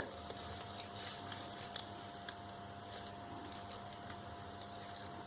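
Quiet room tone with a faint steady hum, broken by a few soft ticks and rustles as paper flowers are handled and glued.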